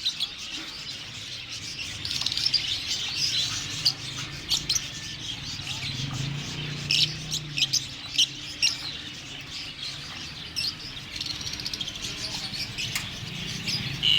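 Many small caged birds chirping and tweeting together, a dense run of short high calls, over a low steady hum.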